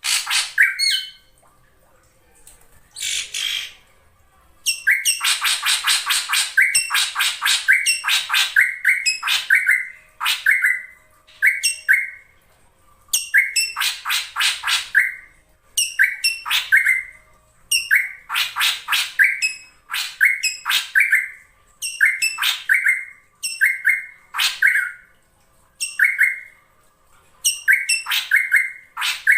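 Drongo calls, billed as a female's lure call: harsh rattling phrases repeated every second or two, each ending in a short clearer note, with a few longer rattling runs.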